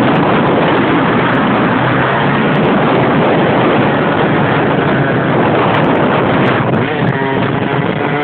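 A motorcycle running, nearly buried under heavy wind noise on the microphone, with a faint engine note showing through near the end.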